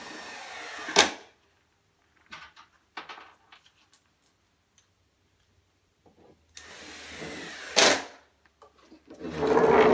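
Cordless drill-driver running screws into PVC panels in three short runs. The first two each last about a second and end in a sharp crack, and the third, about nine seconds in, is louder and lower.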